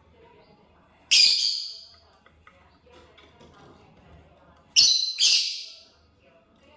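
Lovebird giving shrill, piercing calls: one about a second in, then two in quick succession near the five-second mark, each sharp at the start and quickly fading.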